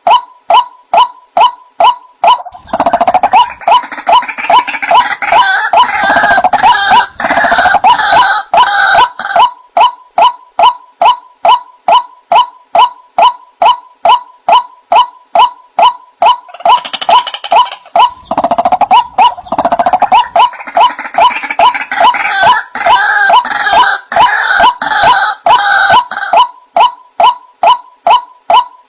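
White-breasted waterhen calling: a steady repeated note about twice a second, with two long stretches of louder, rapid, harsh calling over it, about a tenth of the way in and again past the middle.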